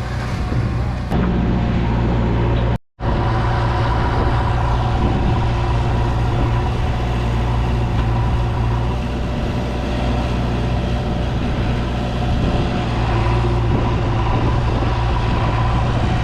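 JCB 3DX backhoe loader's diesel engine running steadily under working load, with a brief dropout in the sound about three seconds in.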